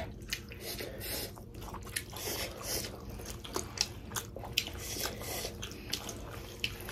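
Close-miked chewing of pork momos, several people eating at once: wet mouth smacks and clicks.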